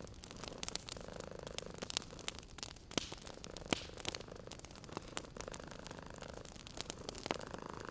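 Wood fire crackling with many sharp, irregular pops, over a cat's purr that swells and fades in slow cycles.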